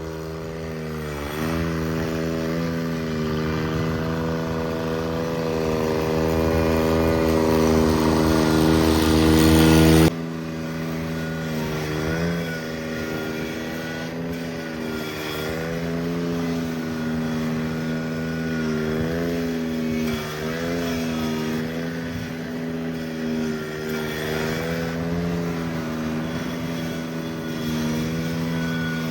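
Cub Cadet 782 garden tractor's twin-cylinder engine running in sub-zero cold, its speed sagging and picking back up several times. A deep rumble under the engine note cuts off suddenly about ten seconds in.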